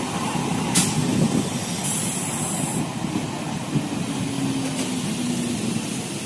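Electric multiple unit (EMU) local train passing close by: a steady rumble of coaches and wheels on the rails, with a sharp clack about a second in.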